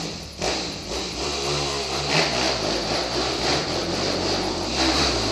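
Dirt bike engine running and revving on a trail. Its pitch rises and falls with the throttle, under the rush and rattle of the ride, and it gets louder near the end.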